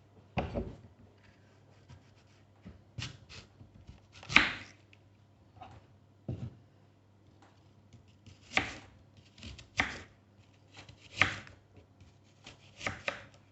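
A small kitchen knife cutting an apple on a chopping board: irregular knocks of the blade striking the board, one to two seconds apart, the loudest about four seconds in.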